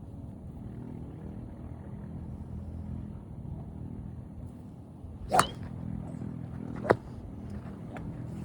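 Sharp cracks of golf clubs striking balls at a driving range, two loud strikes about a second and a half apart and a fainter one near the end, over a steady low rumble.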